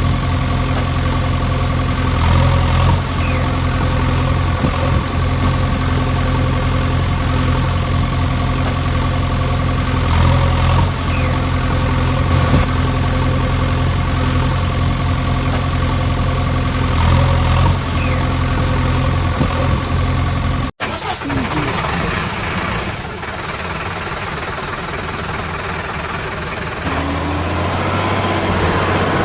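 Heavy engine running steadily at idle, swelling briefly every seven seconds or so. About 21 seconds in it cuts off abruptly and a noisier, different engine sound takes over.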